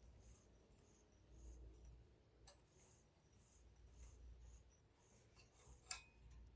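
Near silence with faint handling noises from work on a sewing machine: a light click about two and a half seconds in and a sharper click near the end.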